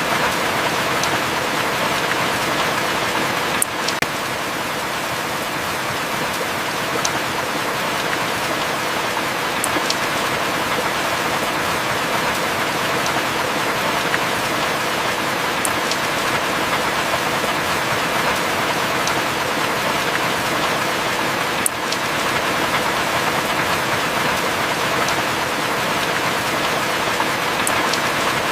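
Heavy rain falling steadily as a dense, even hiss. Single sharp drips or taps cut through it about every six seconds.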